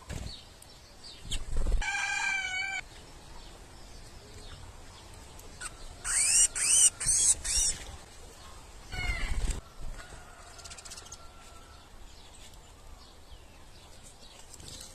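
Birds calling: a rooster-like crow about two seconds in, then four loud high chirps in quick succession around six seconds, and another short call near nine seconds.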